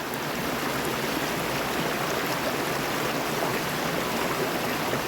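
Creek water rushing steadily over rocks close by, a constant, even hiss.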